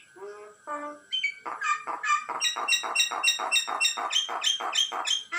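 Myna chick calling: a couple of short notes, then from about a second and a half in a fast, evenly repeated run of harsh chirps, about five a second.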